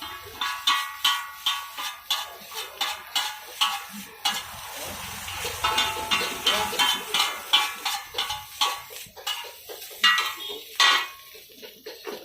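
Metal spatula striking and scraping a wok in quick, ringing clangs, about two to three a second, while noodles fry. Underneath is a frying sizzle that swells midway.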